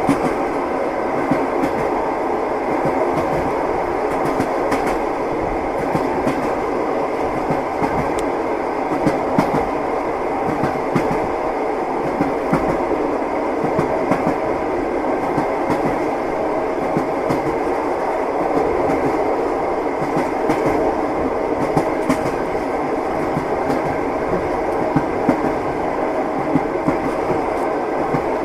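Moving train: wheels clacking over the rail joints under a steady rolling rumble, with many irregular sharp clicks.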